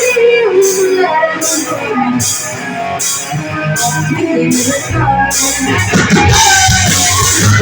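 Live rock band playing: electric guitar, drums with a steady cymbal pattern, and a melodic line that may be singing. The bass and kick drum come in about five seconds in.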